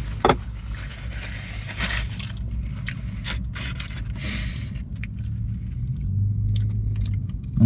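Someone chewing a mouthful of cheesesteak sandwich, with soft scraping and handling noises, over a steady low hum.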